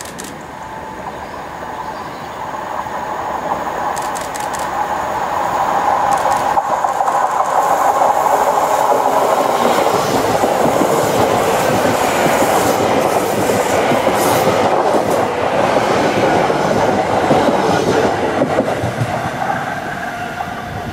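Hitachi Class 802 bi-mode train approaching, passing close and running away, its underfloor diesel engines running under the noise of the wheels, with clicks as the wheels cross rail joints. The sound builds over the first several seconds, is loudest while the coaches pass and eases off near the end.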